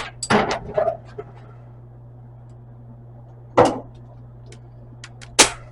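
Steel patch panel clanking and tapping as it is handled and set into the cut-out floor opening for a test fit: a quick cluster of knocks, then two single clanks a couple of seconds apart. A steady low hum runs underneath.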